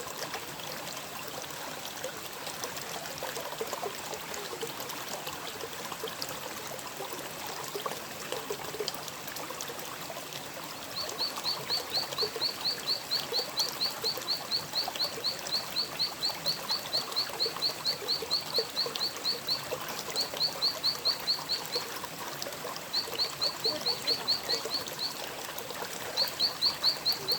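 Stream water trickling steadily, and from about a third of the way in a small animal calling in rapid high-pitched chirps, about five a second, in four runs with short breaks between them.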